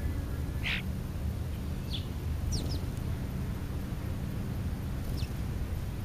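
About five short, high bird calls, several falling in pitch, over a steady low rumble.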